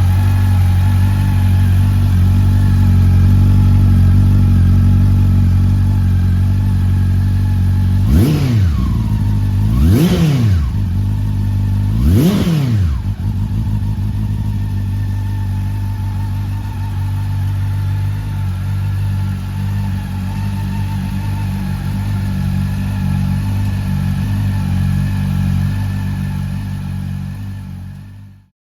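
Honda CB400 Super Four VTEC Revo inline-four engine with a Yoshimura aftermarket exhaust, idling steadily and blipped three times about two seconds apart, each a quick rise and fall in revs, then settling back to idle. The sound fades out near the end.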